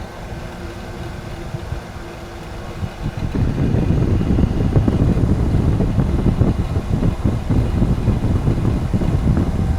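Wind from two electric fans at full power buffeting a DJI Mic Mini clip-on mic inside a motorcycle helmet, with its low-cut filter off: a deep, steady rumble. About three seconds in it gets much louder as the visor is raised and the airstream hits the mic directly.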